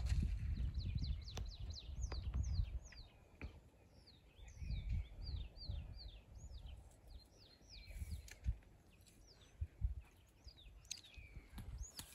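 Birds calling: a long run of short, quick chirps, each sweeping down in pitch, some overlapping. A few sharp snaps come in between, and there is a low rumble in the first few seconds.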